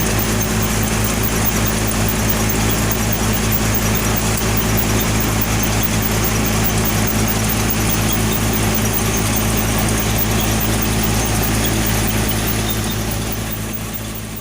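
Sonalika tractor's diesel engine running steadily, a low even hum under a dense rush of machinery noise, fading away near the end.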